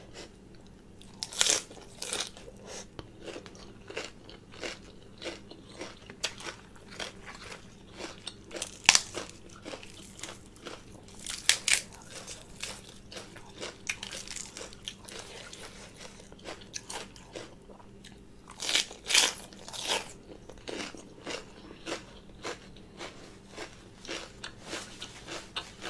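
Chewing and biting into a lettuce wrap of green papaya salad: irregular crisp crunches, with a few louder ones scattered through.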